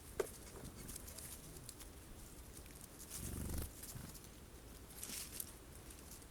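Birds at a forest feeder pecking and rustling in sunflower seeds: scattered light taps and clicks, a short falling squeak just after the start, and a low muffled thump about three seconds in.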